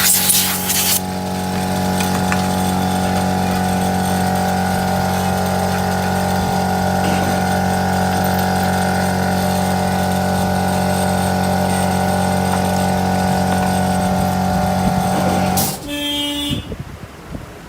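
An electric motor running with a steady, even mains hum, which stops suddenly near the end.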